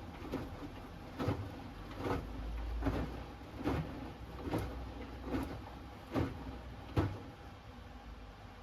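Hoover Axi 10 kg front-loading washing machine tumbling a wash load, the laundry dropping inside the turning drum with a soft thud about every 0.8 seconds over the low hum of the motor. The drum stops turning about seven seconds in, the pause before it reverses.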